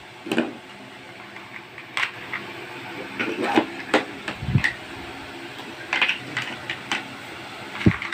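Scattered light clicks and knocks of plastic toy kitchen pieces being handled, at irregular intervals.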